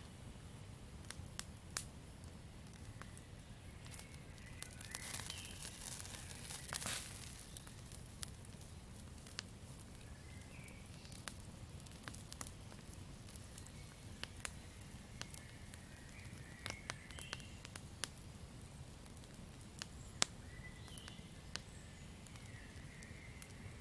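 Campfire crackling with irregular sharp pops over a low steady rumble, with a louder hissing flare-up about five to seven seconds in. Faint short chirps of night forest creatures come and go.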